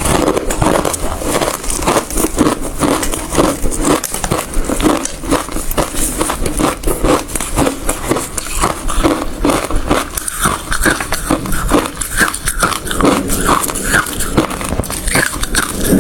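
Ice being chewed close to the microphone: dense, rapid crunching as a mouthful of ice is bitten and ground between the teeth, several sharp cracks a second throughout.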